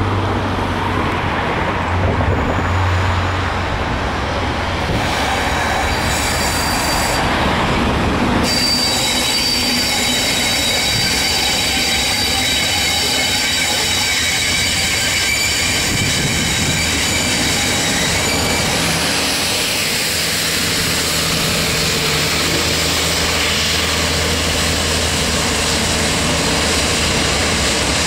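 A train hauled by a pair of Class 37 diesel locomotives, English Electric V12 engines, passing with a train of tank wagons: engine drone and wheel rumble, with high steady wheel squeal from about a third of the way in until about two-thirds through. Near the end the second locomotive's engine drone comes up again.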